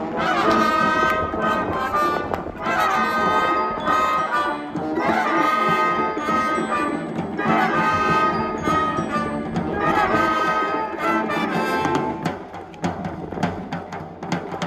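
School wind band playing, trumpets and trombones sounding held chords in phrases of a couple of seconds each. About twelve seconds in the brass stops and drum strokes take over.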